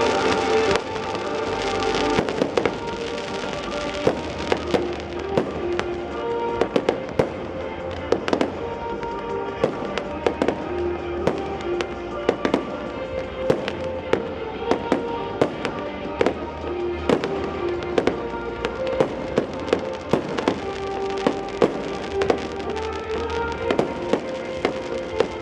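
Fireworks going off in a rapid, irregular series of sharp bangs and crackles, several a second at times, with music playing underneath.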